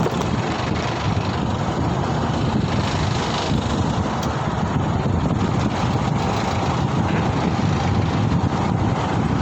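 Steady wind rush and road noise on the microphone of a moving ride, a low, even rumble with no distinct engine note.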